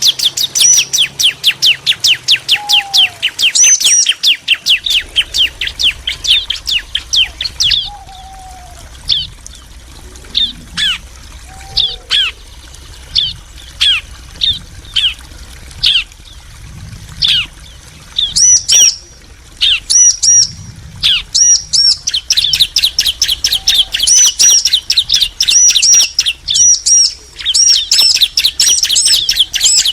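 Bar-winged prinias (ciblek), a female and a male, calling back and forth in rapid, high-pitched chirping trills. The chirping thins to spaced single notes for a stretch in the middle, then quickens again into fast runs.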